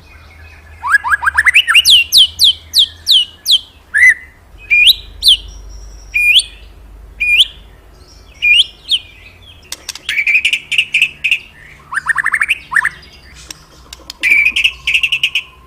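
Murai songbird singing loudly: phrases of quick upward-sweeping whistles and sharp chirps, repeated in runs with short pauses between them.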